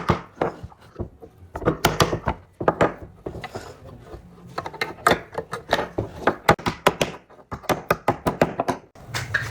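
Irregular series of sharp knocks and thunks of wood on wood, some coming in quick bursts of several a second.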